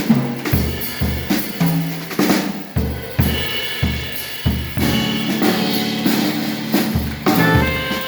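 Jazz drum kit solo: snare, bass drum, toms and cymbals struck in a busy pattern. Near the end the band comes back in with a held horn line.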